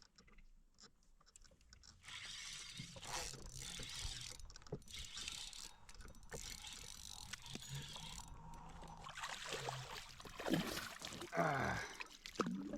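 Fishing reel being wound in: a quiet mechanical gear sound with scattered clicks, starting about two seconds in.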